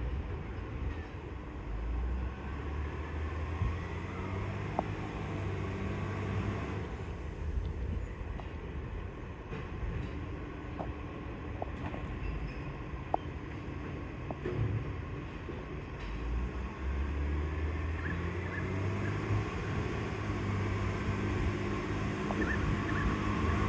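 Garbage truck's diesel engine running, its low note stronger and steadier in two spells, from about two to seven seconds in and again from about seventeen seconds in, with a few light clicks and knocks between.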